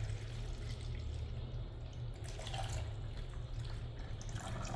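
Water being poured and trickling into the water reservoir of a drip coffee maker, over a steady low hum.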